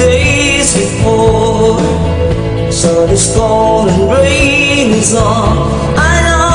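Live band music with a melodic lead line bending in pitch over a steady bass and chords, in a passage without sung lyrics.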